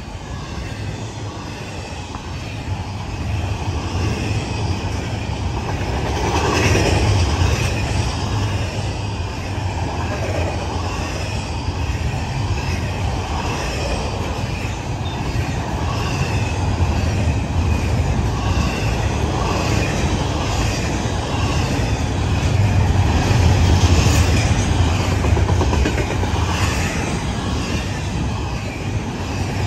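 Loaded double-stack container well cars of an intermodal freight train rolling past close by: a steady heavy rumble of steel wheels on rail with a clickety-clack over the joints, swelling louder about six seconds in and again toward the last third.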